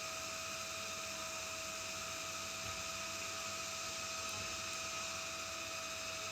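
Steady background hiss with a faint, constant high hum held on one pitch, unchanging throughout.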